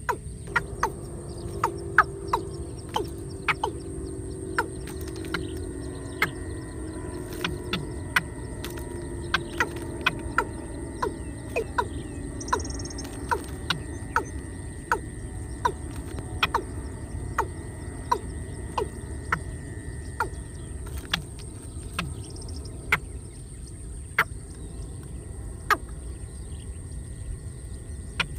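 A bird giving a long series of short, sharp calls, about one to two a second, over a steady low hum.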